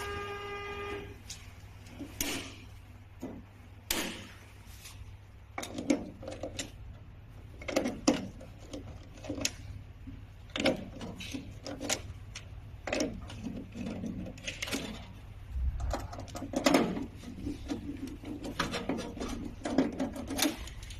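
Irregular clicks, knocks and rattles of hands and tools working on equipment parts, as in taking wiring apart, over a steady low hum.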